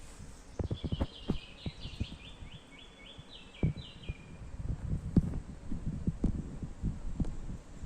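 A songbird singing a quick run of about a dozen repeated notes, starting about half a second in and lasting about three seconds. Irregular low thumps run throughout.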